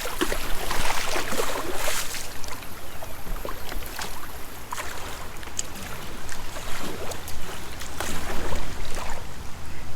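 Kayak paddle strokes dipping and splashing in moving creek water, in uneven spurts over a steady wash of water noise.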